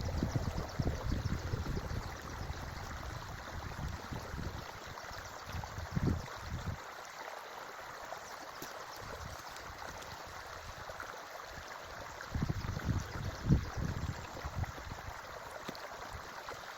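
Forest creek water running steadily, with irregular low rumbles in the first few seconds and again near the end.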